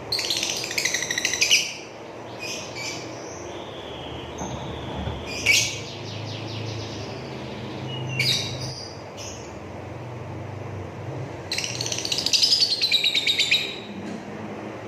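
Blue-mutation lovebird chattering in harsh, rapid trilling bursts, its long 'ngekek' song. A burst at the start and a few short calls in the middle are followed near the end by a longer two-second burst.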